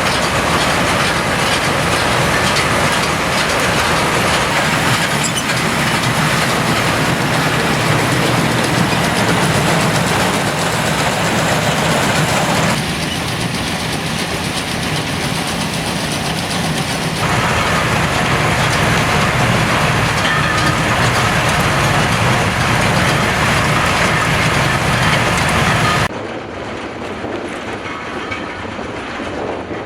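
A tractor-drawn pruning round baler working in the field: a loud, continuous mechanical rattle and clatter of the machine running and taking in branches. The noise changes abruptly a few times and falls to a lower level near the end.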